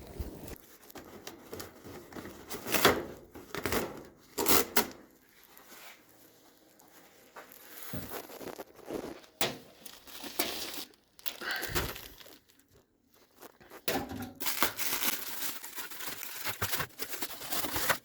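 Irregular scraping, scrubbing and handling noises from cleaning an oily transmission part with a metal brush and brake cleaner, with a longer hissing stretch in the last few seconds.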